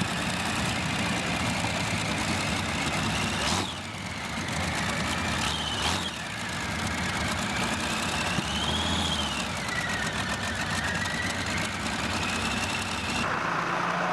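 A competition pulling tractor's engine running hard under load, loud and steady, with a high whine that rises and falls. The sound dips briefly twice, about four and six seconds in.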